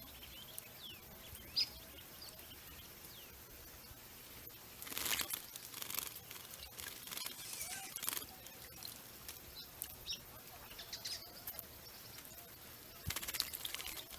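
Small birds chirping with short, high calls, while bathing birds splash and flutter in a water fountain in several bursts of about a second each.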